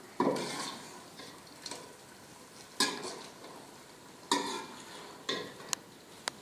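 Metal spoon stirring food in a cooking pot, knocking and scraping against the metal with several separate clanks, over a faint sizzle of frying. Near the end come two short, bright ringing clinks.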